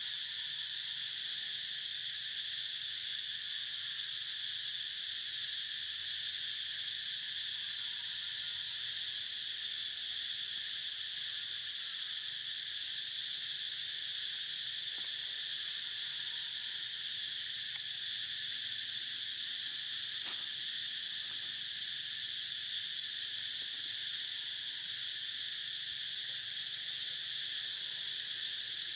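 Steady, high-pitched chorus of insects, an unbroken shrill buzz that holds at the same level throughout.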